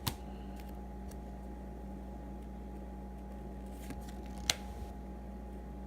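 Baseball trading cards being handled and flipped through: a short click at the start and a sharper snap about four and a half seconds in, with a few faint ticks, over a steady low hum.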